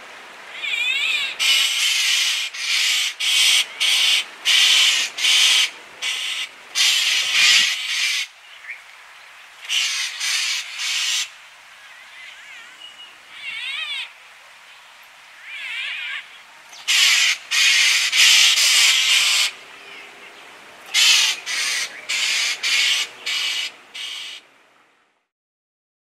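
Birds calling in loud rasping bursts, runs of several short calls broken by pauses of a second or two, fading out near the end.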